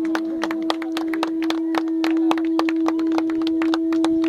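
A horn blown as one long steady note, with many sharp clicks all through.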